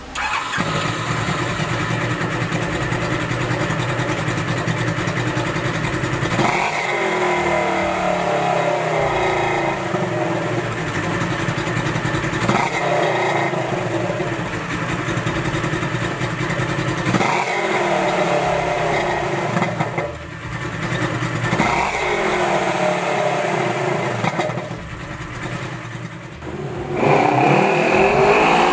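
Engine running through a Dirt Runner slip-on exhaust, blipped four times about five seconds apart. Each blip is a quick jump in revs that falls back to a steady idle. Near the end it is revved and held at higher revs.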